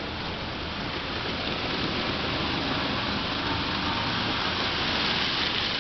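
N-gauge model trains running on the layout's track: a steady rushing, rattling noise of small wheels and motors, getting a little louder from about two seconds in.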